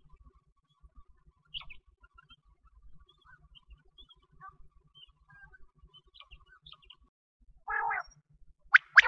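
Faint scattered chirps of small birds in a wheat field. Near the end comes a short burst of noise, then two loud, sharp clicks.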